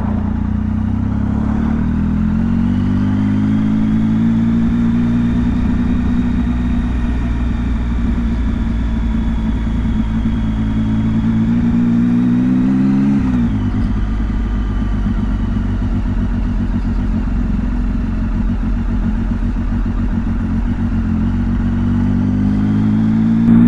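The ridden motorcycle's engine, heard on board: it picks up revs about two seconds in and runs steady, revs a little higher, then the throttle shuts off sharply about thirteen seconds in. After that comes a rougher, lower rumble, which rises again near the end.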